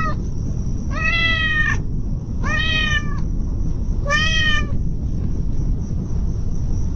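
A kitten meowing: the end of one meow, then three more meows about a second and a half apart, each rising then falling in pitch, over a steady low rumble. The last few seconds hold only the rumble.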